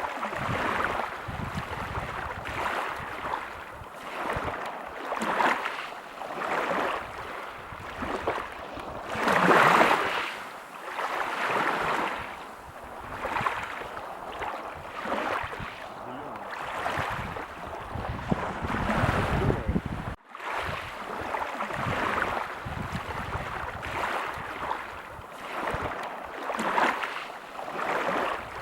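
Ocean waves breaking and washing on a beach, the surf swelling and falling every second or two, the biggest wave about a third of the way in. A momentary break in the sound about two-thirds through.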